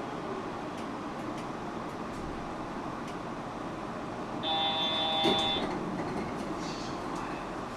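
Steady ambience of a stopped Yurikamome automated train at a station platform, doors open. Just past halfway a single steady electronic-sounding tone, about a second long, sounds over it: a station or train warning signal.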